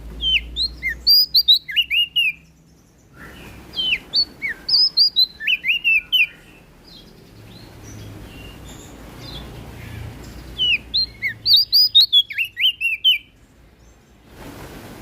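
Prenjak daun (leaf warbler) singing in three quick bouts of high, down-sweeping chirping notes, separated by short pauses.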